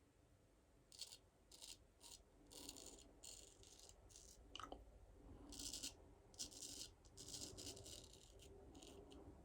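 Straight razor scraping through stubble in a run of short strokes, each a fraction of a second, coming irregularly one after another.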